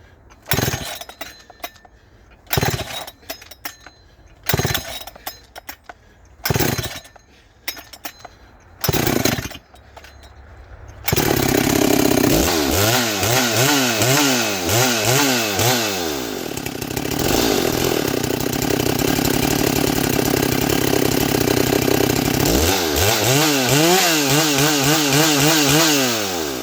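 Ported and decked Husqvarna 394XP two-stroke chainsaw being pull-started: several hard starter-cord pulls about two seconds apart, hard to pull over because of the high compression, then the engine catches about eleven seconds in and runs loud, its pitch wavering up and down.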